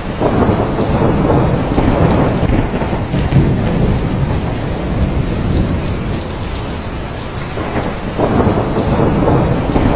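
Steady heavy rain with thunder rumbling, swelling at the start and again near the end.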